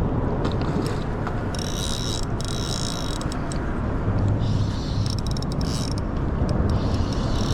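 Spinning fishing reel cranked in several short spells, a clicking, ratcheting whir, over a steady low rumble.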